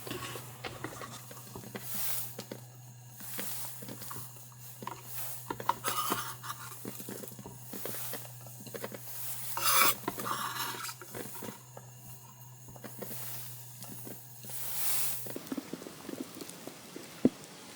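Kitchenware being handled: irregular clinks and knocks of utensils against pots and dishes, with scraping and stirring. A steady low hum underneath cuts off about fifteen seconds in.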